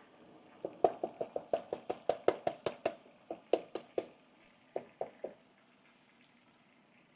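A rapid run of sharp knocks from kitchen work, about five a second, pausing briefly about three seconds in, then a few more knocks that stop a little after five seconds.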